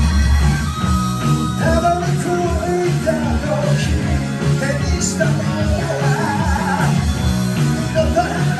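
Live hard rock band playing: drums, bass, keyboard and electric guitar, with a man singing the lead vocal over them from about two seconds in.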